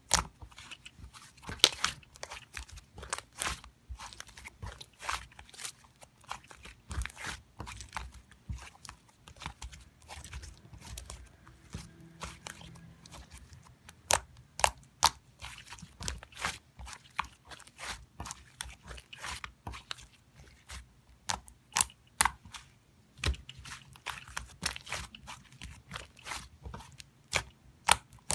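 Irregular sharp crunches and clicks at close range, coming in clusters with short pauses between them.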